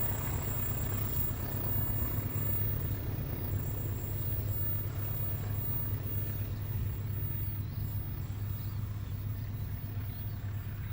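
A train passing, a steady low rumble with a constant deep hum that runs on evenly after its horn has stopped.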